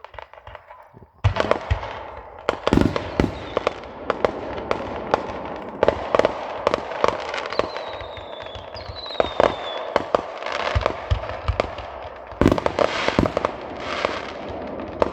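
Fireworks display: a dense run of aerial shells bursting in sharp bangs over continuous crackling, starting about a second in, with a couple of falling whistles about two-thirds of the way through.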